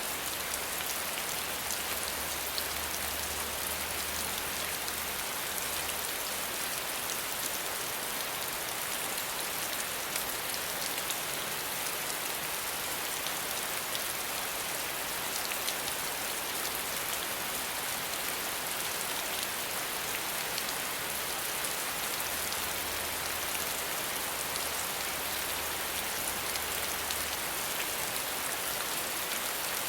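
Steady rain falling, an even hiss of many fine drops pattering without a break.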